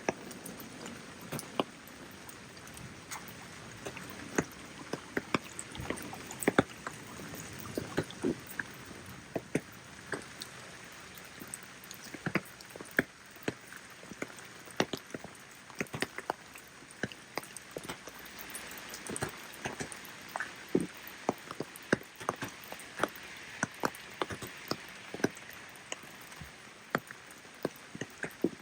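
Rain falling with a steady hiss, and large drops striking hard surfaces in many irregular, sharp ticks.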